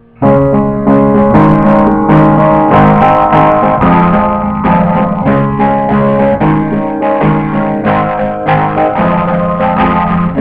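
Piano playing chords over moving bass notes, coming in suddenly just after the start. The overloaded recording distorts it so that it sounds like a guitar.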